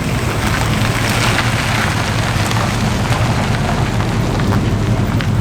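American V8-type car engines rumbling steadily at low revs through their exhausts, a deep steady drone with a rough hiss over it.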